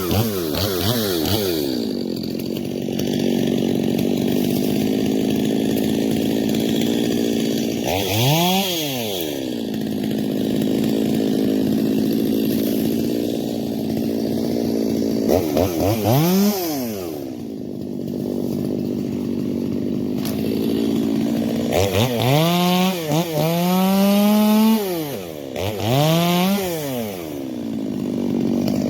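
Stihl MS 250 two-stroke chainsaw cutting wood, running steadily under load. The engine revs up and falls back several times: once about a third of the way in, again near the middle, and in a quick series near the end.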